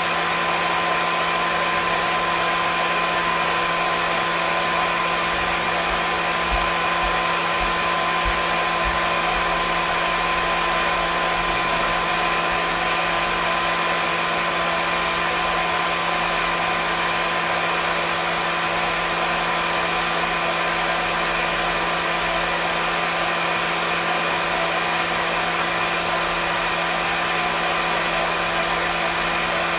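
Hair dryer running steadily: a continuous rush of air over a constant motor hum that never changes.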